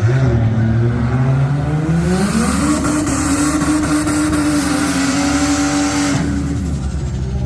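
Car engine revving up over about two and a half seconds, holding high revs for about three and a half seconds, then dropping back.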